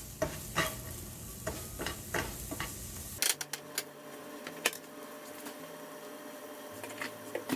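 Diced red onions sizzling in a frying pan, stirred with a spatula in several scraping strokes for the first three seconds or so; after that the sizzle goes on alone with scattered small pops.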